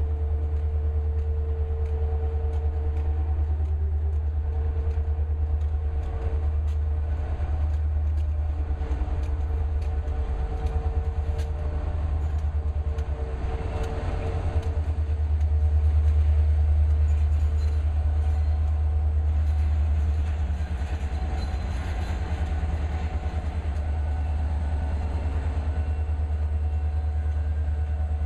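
Diesel locomotives running steadily: a deep continuous engine rumble with a steady tone over it, swelling a little louder about halfway through.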